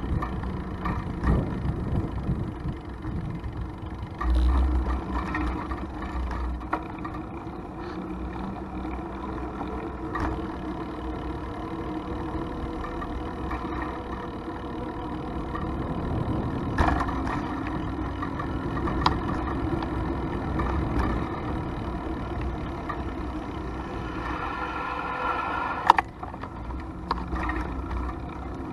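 Ride noise from a bicycle in traffic: wind rumbling on the microphone, with rolling road noise and passing vehicles. Scattered clicks and one sharp click near the end.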